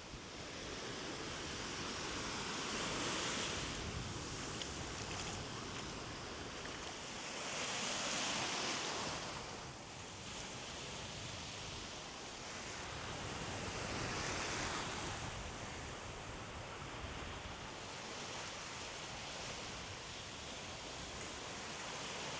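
Sea waves breaking on a beach, the surf swelling and fading every five or six seconds, with sea breeze in the background.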